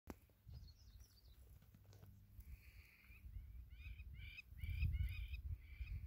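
Faint bird calls: a few thin chirps near the start, then a quick run of short, repeated calls that slide down in pitch, over a low wind rumble on the microphone.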